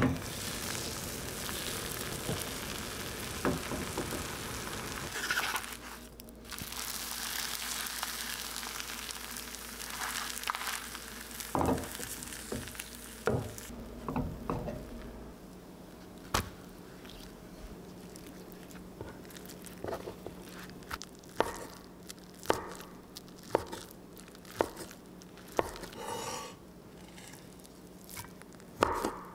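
Food sizzling in a frying pan for about the first half, then quieter, with scattered clicks and knocks of utensils and kitchenware.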